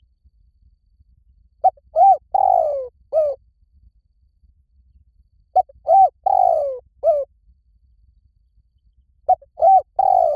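Spotted dove cooing: three phrases, each made of a short note, a rising-and-falling note, a longer note that slides down and a short closing note, repeated about every four seconds.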